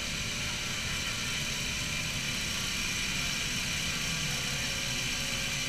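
Car engine running steadily, with a steady high hiss over it.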